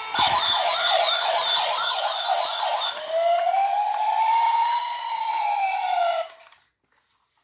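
Battery-powered toy sirens sounding electronically: a fast warbling yelp for about three seconds, then a slow wail that rises and falls once, before cutting off suddenly about six seconds in.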